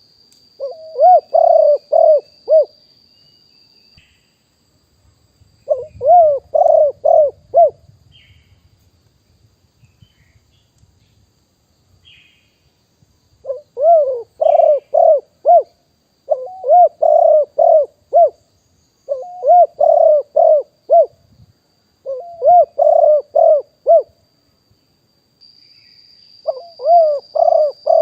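Spotted dove cooing: about seven phrases, each a quick run of a few hooting coo notes, with pauses of one to several seconds between them.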